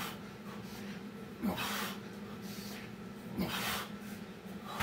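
A man breathing hard from exertion: two loud, heavy exhales about two seconds apart, over a steady low hum.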